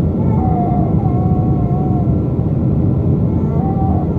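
Boeing 777-222A cabin noise heard from a window seat: the steady rumble of the jet engines and airflow.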